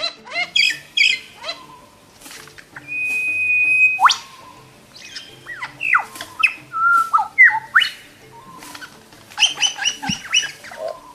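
Bird calls: harsh squawks, quick runs of repeated chirps, and whistled notes sweeping up and down, with one held whistle about three seconds in that ends in a sharp upward sweep.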